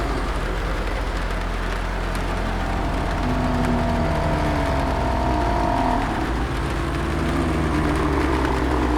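Layered zombie-apocalypse horror ambience: a steady deep rumble under an even rain-like hiss, with faint drawn-out moaning tones between about three and six seconds in.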